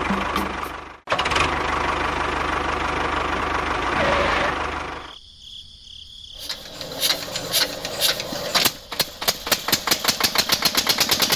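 An engine running steadily, with a brief break about a second in. It dies away about five seconds in, then starts again as a fast rattling beat that quickens toward the end.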